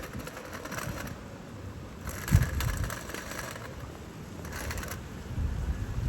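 Small waves washing on the shore in three hissing surges, with wind buffeting the microphone in low thumps, the strongest a little over two seconds in.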